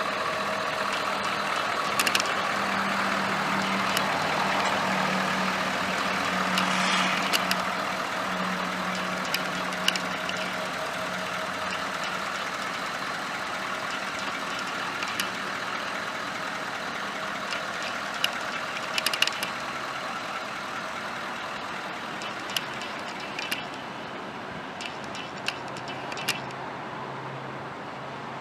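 Ford 6.7L Powerstroke turbo-diesel V8 idling steadily, with a few sharp clicks scattered through.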